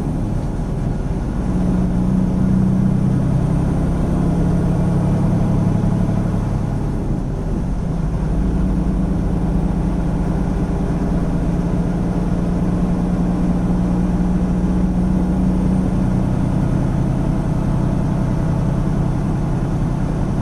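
Semi-truck's diesel engine running steadily while driving at highway speed, a low steady hum with road noise, heard from inside the cab.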